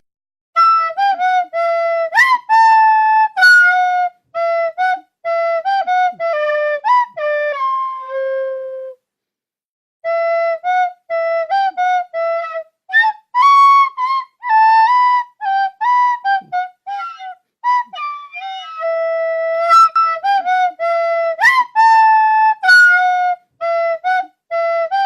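A solo woodwind with a flute-like tone playing a melody of many short, separate notes, with a pause of about a second near the middle.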